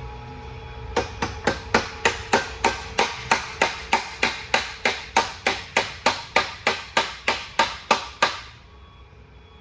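Hammer blows on metal, some two dozen evenly spaced strikes at about three and a half a second, each with a short bright ring. They start about a second in and stop near the end.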